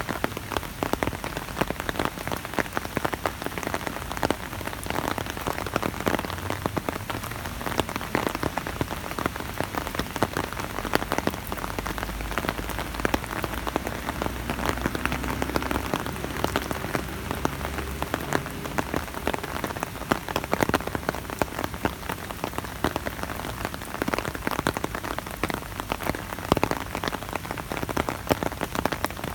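Rain falling on an umbrella overhead: a dense, steady patter with many individual drop hits standing out.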